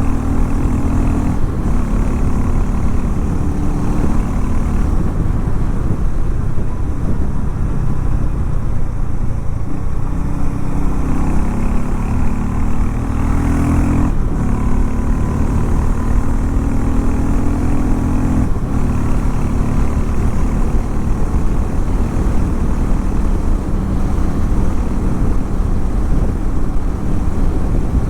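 Harley-Davidson X440 T's single-cylinder engine and exhaust running steadily, its note shifting in pitch several times, with a low rumble underneath.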